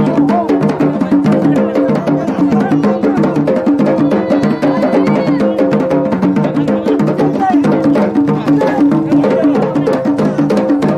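Yemeni wedding procession music: marfa' drums and other drums beat a fast, steady rhythm under a sustained melody line.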